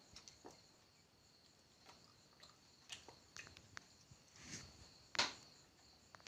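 Soft, scattered clicks and smacks of a young child chewing a piece of chicken, over a faint steady high whine. The loudest smack comes a little after five seconds in.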